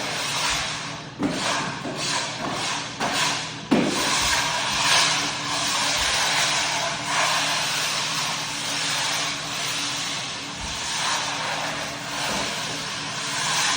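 Rotary floor buffer running over a hard-wax-oiled oak floor: a steady motor hum under the hiss of the pad on the wood. A few sharp knocks come in the first few seconds.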